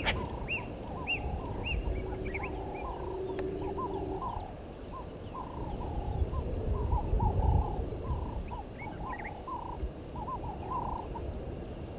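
Wild birds calling over the bush: a busy run of short, repeated chirping and chattering calls, with a low rumble underneath.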